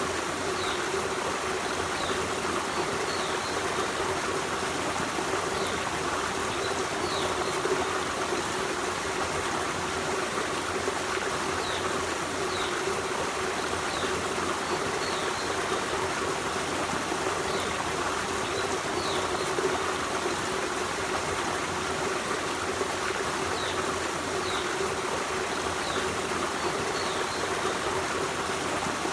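Forest stream running steadily over rocks, an even rush and trickle of water. Faint, short high chirps come and go throughout.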